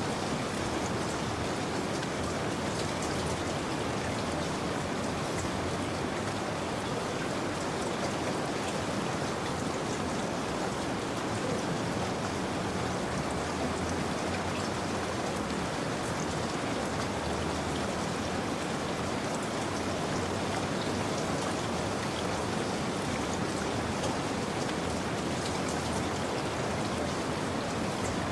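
Steady rain falling, with fine scattered drops pattering on a surface.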